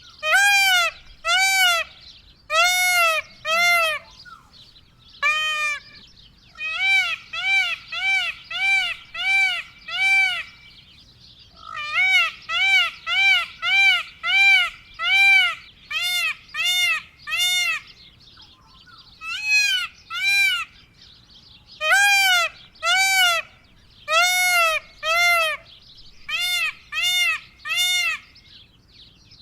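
Indian peafowl (peacock) calling: loud nasal notes, each rising then falling in pitch, repeated about two a second in runs of several calls with short pauses between runs.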